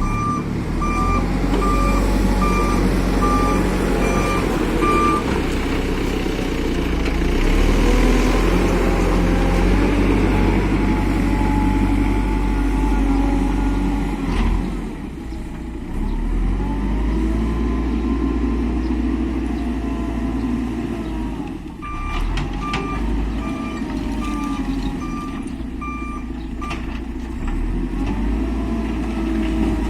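Heavy diesel construction machinery working, the engine note rising and falling under load. A reversing alarm beeps about twice a second at the start and again later for a few seconds.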